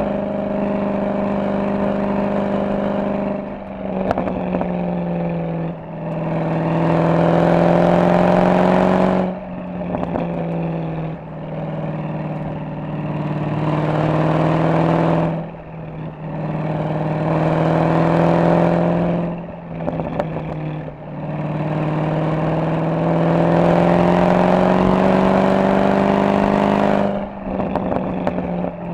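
Mercedes-AMG SL63's V8 engine and exhaust under way. It hums steadily at first, then makes several pulls of a few seconds each with the note rising in pitch, each ended by a sudden lift off the throttle.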